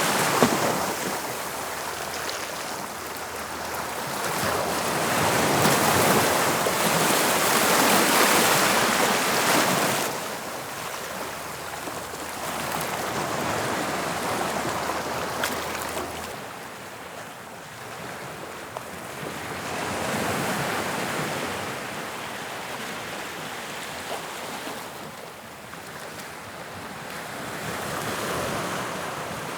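Sea waves breaking and washing on the shore in slow swells, each building and ebbing over several seconds, with the loudest surge in the first third and gentler ones after.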